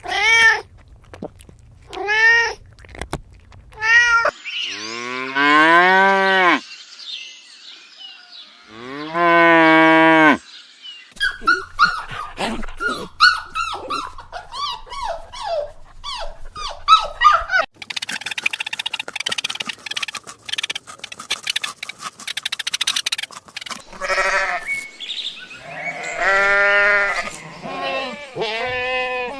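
A string of farm-animal calls: a cat meowing four short times, then cattle mooing in two long calls, followed by a busier mix of animal calls.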